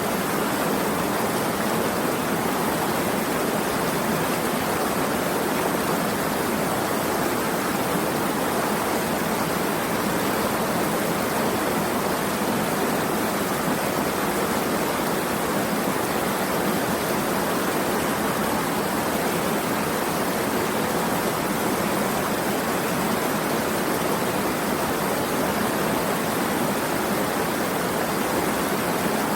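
Running water rushing steadily, like a stream or small waterfall: one continuous, even hiss with no separate drops, splashes or changes.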